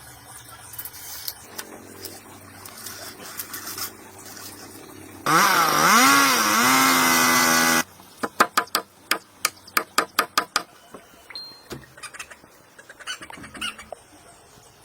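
A small engine revs loudly for about two and a half seconds, its pitch rising and falling, and cuts off suddenly; then a quick run of sharp knocks follows.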